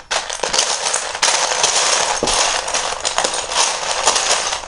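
A hand rummaging through a pile of loose plastic Lego pieces, making a continuous rapid clatter of small bricks knocking together.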